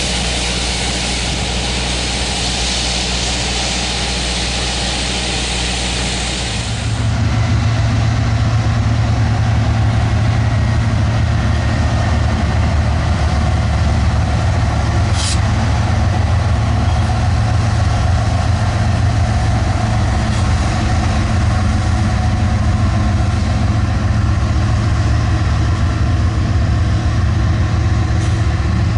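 Diesel locomotive engine running with a steady low drone. For the first seven seconds a broad hiss runs over it. About seven seconds in the hiss cuts off and the engine's drone becomes louder and dominant. There is a single sharp click about fifteen seconds in.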